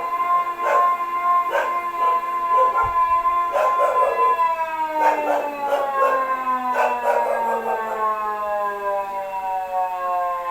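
Drill alarm siren holding a steady tone, then winding down, its pitch falling slowly through the second half. A dog barks repeatedly throughout.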